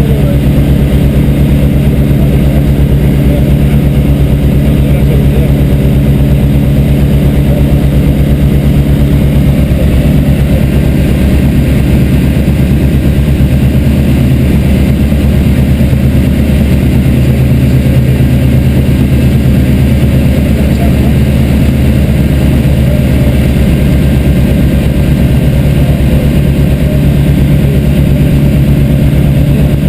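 Light aircraft's piston engine and propeller running steadily at constant power, a loud continuous drone.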